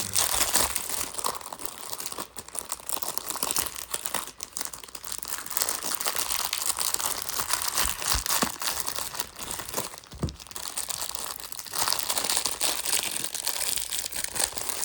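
Plastic-wrapped baseball card rack pack being torn and crinkled open by hand, a continuous crackling with a few soft knocks along the way. The wrapper is being a struggle to get open.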